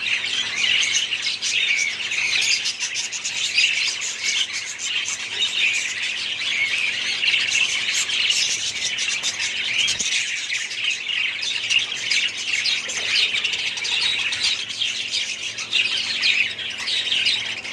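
Many caged budgies and other small parrots chirping together without a pause, a dense overlapping chorus of many birds.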